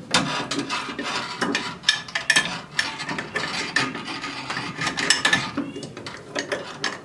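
Metal hoist hardware, the hook and pulley, being handled and set: irregular metallic clinking and rattling with scattered sharp clicks.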